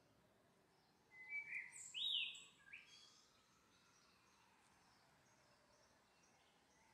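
A bird gives a short run of chirps and falling whistled notes about a second in, lasting under two seconds, over otherwise near-silent outdoor background.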